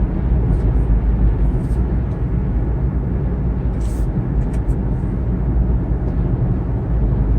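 Inside the cabin of a Kia Morning (TA) cruising at about 70 km/h: steady engine and tyre-on-road rumble.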